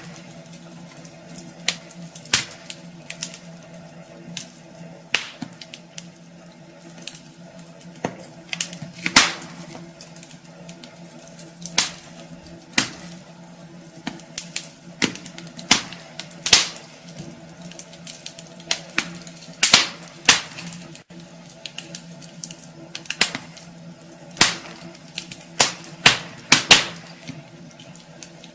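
Wood fire crackling in a fireplace: irregular sharp pops and snaps, sometimes several in quick succession, over a steady low hum.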